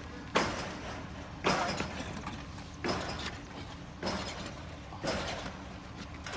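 An engine idling steadily, with five sharp knocks about a second apart standing out above it.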